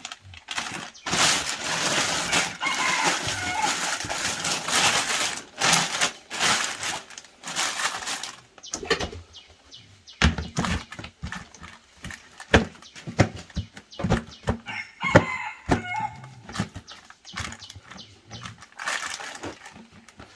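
Chickens squawking and flapping their wings amid dense rustling for several seconds, then a long run of scattered knocks and taps.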